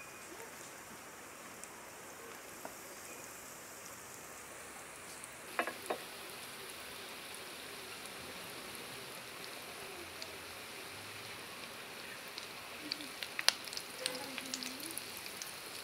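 Breadcrumb-coated egg-and-potato chops shallow-frying in hot oil, a steady sizzle. A few sharp clicks come about six seconds in, and more near the end as a fork lifts the chops against the pan.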